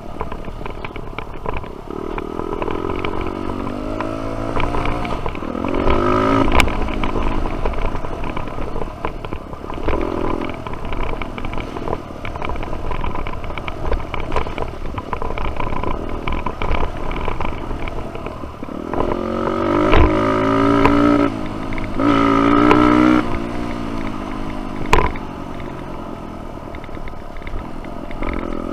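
Dirt bike engine on a trail ride, revving up and easing off in repeated surges of rising pitch, loudest about two-thirds of the way through. A few sharp knocks stand out along the way.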